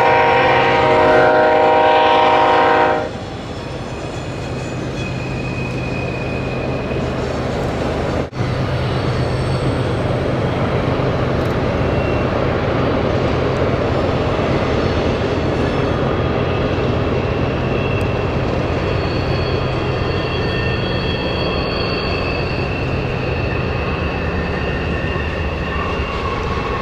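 BNSF freight train's diesel locomotives: a horn blast of about three seconds at the start, then the steady drone of the engines and rolling train as the locomotives work past.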